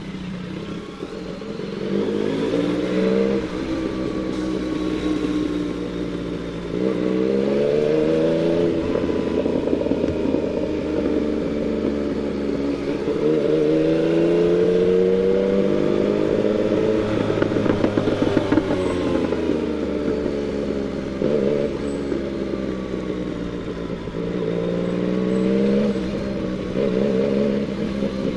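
Yamaha MT-09 inline three-cylinder engine on the move, pulling through the gears: the engine note climbs in pitch several times and drops back at each upshift, with a stretch of easing off in the middle.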